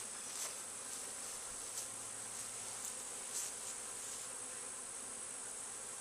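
Steady buzzing of a honeybee swarm, with a few faint clicks.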